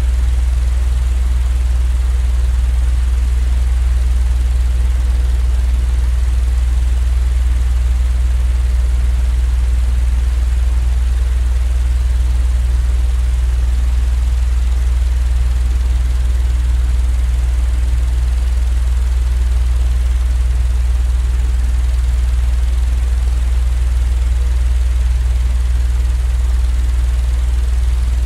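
Steady, unchanging low drone of a sleep-noise track: a deep continuous hum with only a faint hiss above it.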